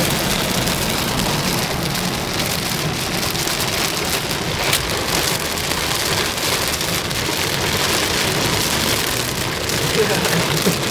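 Heavy rain falling on a car's roof and windscreen, heard from inside the moving car as a steady, even hiss.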